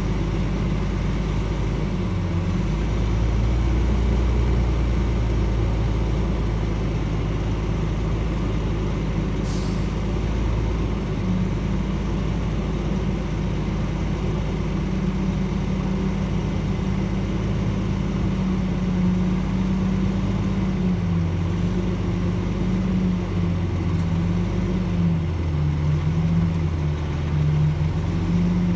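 Shantui DH17C2 bulldozer's diesel engine running steadily, its pitch wavering up and down in the second half. A brief hiss comes about nine and a half seconds in.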